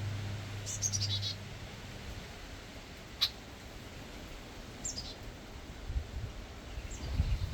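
Backyard songbirds calling: short high chirps and quick falling runs of notes every couple of seconds, with one sharp, loud chip about three seconds in. A low steady hum fades out about a second and a half in, and low rumbling comes in near the end.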